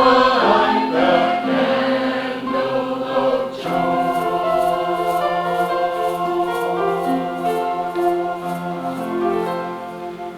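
Choir singing, settling about a third of the way in onto a long held chord that slowly fades away.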